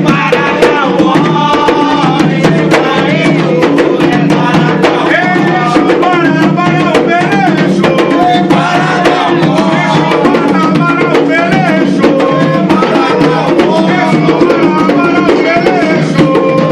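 Afro-Brazilian ritual drumming on hand drums, with a dense, steady rhythm of strokes under group singing of a chant to Exu.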